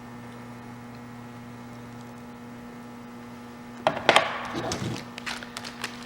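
A steady mains-type hum, then from about four seconds in a sudden run of knocks, clinks and rustling as the saw chain and bar are handled in their plastic bag.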